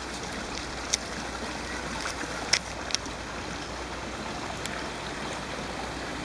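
Steady rush of stream water, with a handful of very short, sharp high-pitched notes over it, the loudest about two and a half seconds in.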